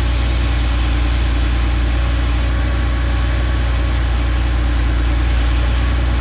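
1989 Porsche 911 Targa's air-cooled flat-six idling steadily shortly after a cold start.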